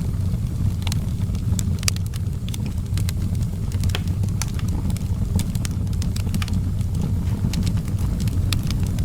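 Outdoor wood fire burning, with irregular sharp crackles and pops, several a second, over a steady low rumble.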